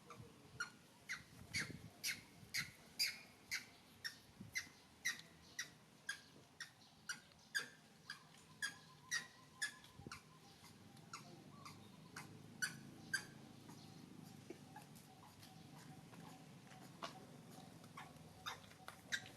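Short, high squeaking calls from a small animal, repeated about twice a second, then coming more sparsely after about ten seconds.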